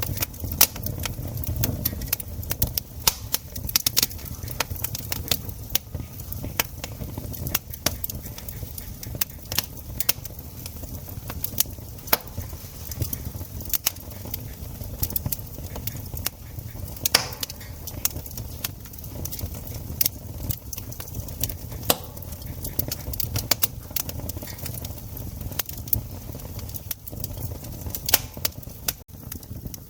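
Wood campfire burning with dense, irregular crackles and pops over a low steady rumble.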